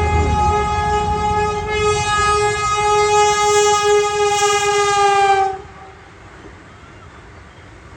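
Indian Railways train horn sounding one long, loud blast over the low rumble of the passing train. The horn dips slightly in pitch near its end and cuts off abruptly about five and a half seconds in, leaving a much quieter background.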